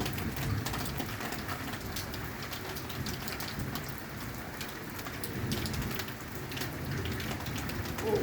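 Steady heavy rain, with individual drops hitting nearby surfaces as sharp ticks. A low rumble of thunder fades away at the start, and a weaker rumble swells about five and a half seconds in.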